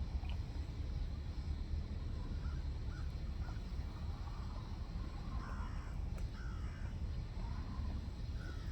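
A bird calling outdoors, several short calls coming in the second half, over a steady low rumble.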